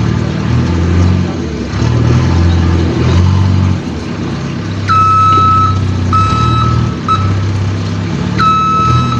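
A large vehicle's engine running with a low, steady hum. From about five seconds in, an electronic warning beeper sounds four times, most likely a reversing alarm.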